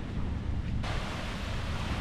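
Wind buffeting the microphone outdoors: a steady low rumble under a wash of hiss, the hiss turning brighter suddenly about a second in.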